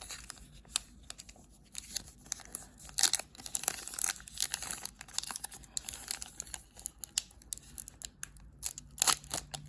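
Hockey card pack wrapper being torn open and crinkled by hand, in uneven rustling bursts with small clicks, busiest about three seconds in and again near the end.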